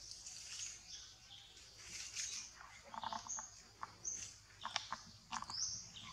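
Birds chirping: short, high chirps and calls scattered throughout, some rising in pitch, with a few faint clicks.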